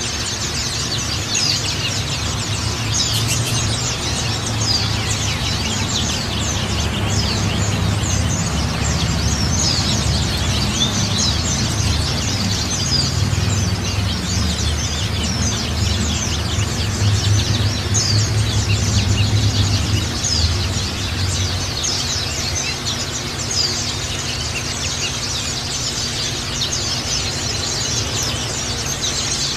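White-eyes (pleci) chirping and twittering continuously in quick, high, thin notes: a pleci lure song of the kind played to set other white-eyes singing. A low rumble runs underneath, strongest in the middle.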